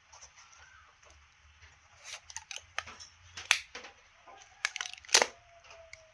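Scattered clicks, crackles and rustles of plants and their packaging being handled, with the sharpest snaps about three and a half and five seconds in.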